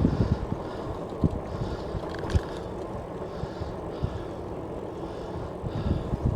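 Steady rumble of wind on the microphone and tyre noise from an electric bike rolling along the road, with a few light clicks.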